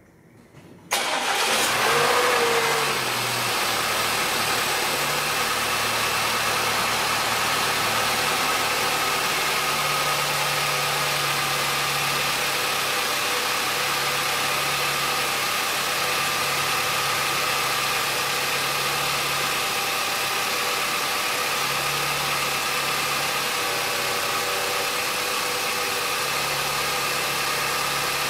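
Audi A5's 1.8 TFSI turbocharged four-cylinder engine cranking and catching about a second in, flaring briefly, then settling to a steady idle. This is the first run after its timing chain kit was replaced and new iridium spark plugs fitted, to cure misfires caused by timing that was off its marks.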